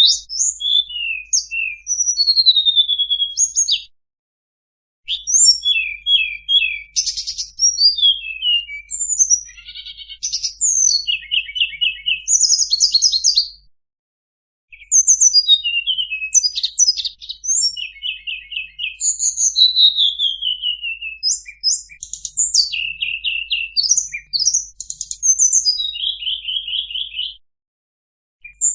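Song of the tledekan bird played as a lure call: fast high-pitched chirps, rapid trills and falling whistles in dense phrases. The song comes in stretches broken by brief full silences, and a faint low hum runs under it while it plays.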